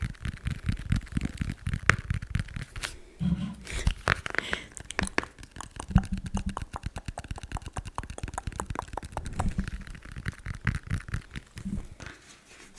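Fast tapping and scratching on a makeup palette: a dense run of rapid, close-set taps mixed with scraping.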